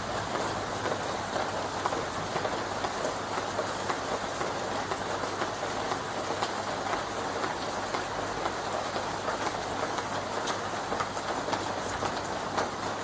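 Rain falling on leaves: a steady dense hiss of drops with many small individual taps scattered through it.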